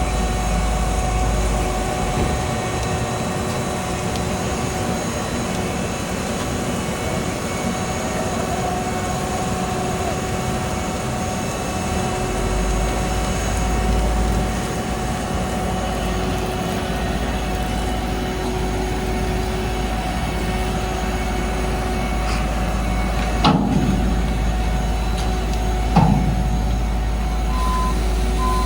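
Heavy diesel road-construction machinery running steadily, a low engine rumble with a constant whine over it. Two sharp knocks sound near the end.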